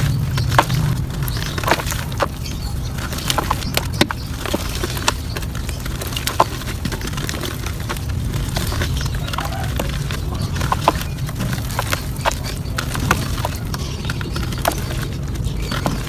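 Clumps of soft dirt crumbling, a stream of irregular crisp cracks and crunches over a steady low rumble.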